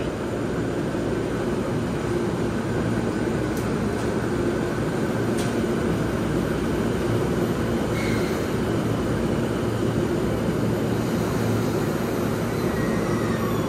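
JR Nambu Line electric commuter train standing at a station platform with its doors closing, giving a steady hum and rumble from the idling train. Faint clicks come a few seconds in.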